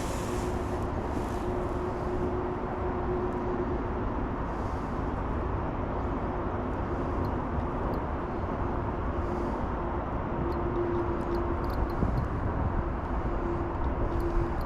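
Steady outdoor background noise, a low rumble and hiss with a faint steady hum that comes and goes, and a few light ticks in the second half.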